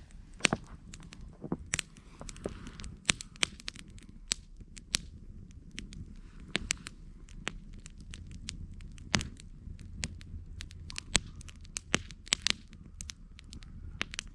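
Campfire crackling: burning wood giving off irregular sharp pops and snaps, several a second, over a low steady rumble.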